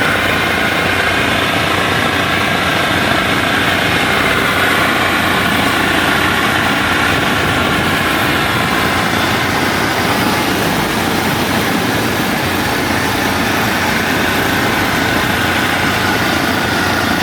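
Steady, unbroken engine noise on the move: the diesel engine of a Kubota WD102PRO combine harvester travelling along a road, mixed with the running of the vehicle following it.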